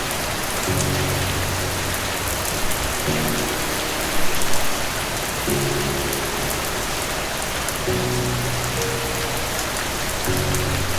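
Steady heavy rain falling, with a brief swell in loudness around the middle. Under it run soft low held notes of calm background music, with a new chord about every two and a half seconds.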